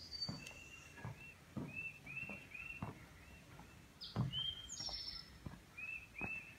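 A small bird singing a run of short, repeated chirps, about three a second, which break off midway and start again near the end. Footsteps on gravel land underneath, one louder step about four seconds in.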